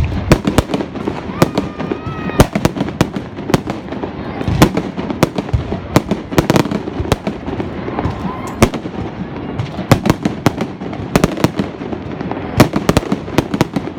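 Fireworks going off: a string of sharp bangs and cracks at irregular spacing, coming in a fast cluster near the end.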